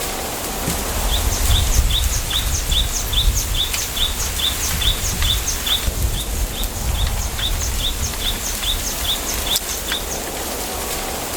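A small bird calling over and over, short high chirps about two a second, against the steady hiss of wind through a bamboo forest, with a low rumble of wind underneath.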